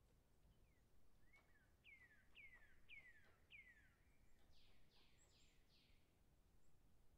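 Faint bird chirps: four quick falling whistles about half a second apart, then a run of four or five rougher falling notes, over a low hiss.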